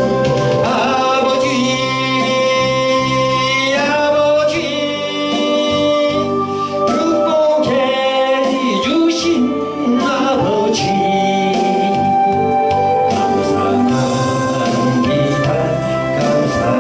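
A gospel song with a solo voice singing long, held notes over steady instrumental accompaniment.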